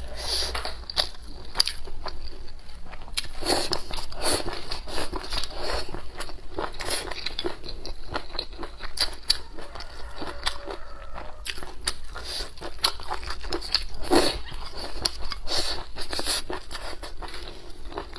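Mouth chewing and crunching spicy dressed kelp strips, a dense run of crisp irregular bites and clicks.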